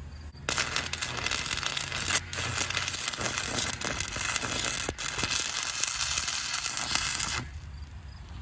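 Electric welding arc crackling steadily as a bead is laid on the steel tailgate hinges. It starts about half a second in and cuts off near the end.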